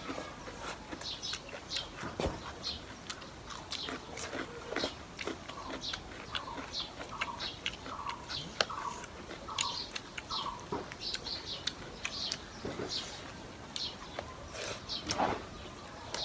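People eating egg curry mukbang-style: chewing and lip-smacking, a steady run of short clicks and smacks.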